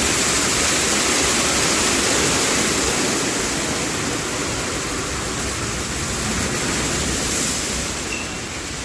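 Automatic car wash spraying water over the car: a steady rush of spray that eases off a little about three seconds in.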